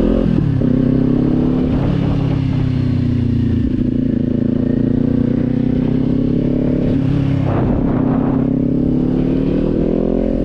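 Kawasaki Z400's parallel-twin engine and exhaust pulling the bike along: the revs climb, drop sharply at a gear change just after the start, hold fairly level, then climb again near the end.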